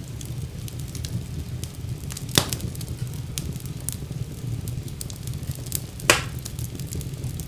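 Fire burning in a fireplace: a steady low rumble of flames under constant small crackles, with two louder pops, one about a third of the way in and one near the end.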